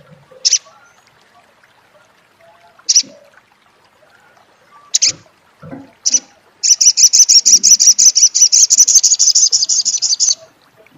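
Sogok ontong (little spiderhunter) calling: several short sharp single notes, then a rapid rattling chatter, the 'crecet' call, lasting nearly four seconds from about the middle of the stretch.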